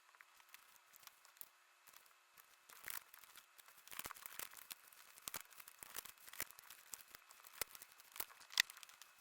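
Paper being torn and crinkled: quick, irregular, faint crackles and rustles of photo-book pages being handled. The footage is sped up, so the rustles come fast and close together.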